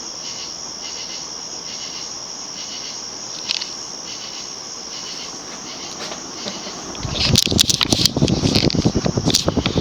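TAT 'UFO' 56-inch industrial ceiling fan running at medium-high speed, with a steady high-pitched chirring that pulses about one and a half times a second over a low hiss. About seven seconds in, loud rapid fluttering begins as the fan's airflow buffets the microphone.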